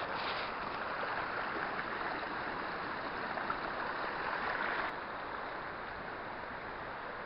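Small stream in spate, its water rushing steadily, running far higher than usual. The sound drops a little about five seconds in.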